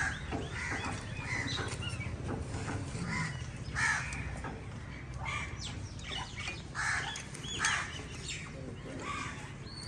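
Birds calling: scattered short calls and chirps, some rising and falling in pitch, over a faint steady background.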